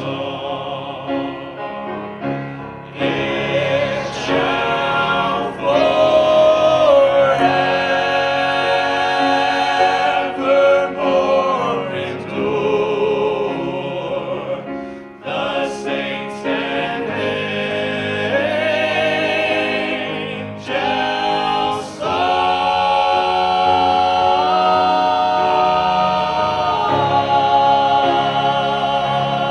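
A vocal group singing a gospel hymn in close harmony. Several voices sing moving phrases, then settle on a long held final chord over the last several seconds.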